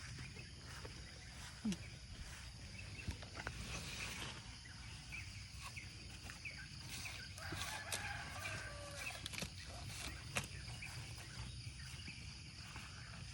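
Chickens clucking, with one longer wavering call about seven to nine seconds in, over a steady high drone of insects and scattered small clicks.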